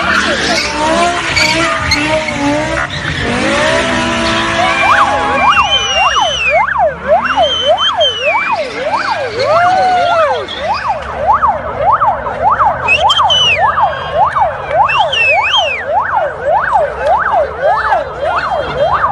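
Emergency vehicle siren in fast yelp mode, its pitch sweeping up and down about twice a second, starting about five seconds in. Before it, a jumble of squeals and gliding tones, with occasional higher squeals over the siren.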